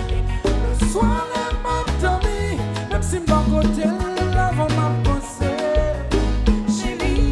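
Live Haitian konpa band music: a heavy bass and drum groove under a gliding melodic lead.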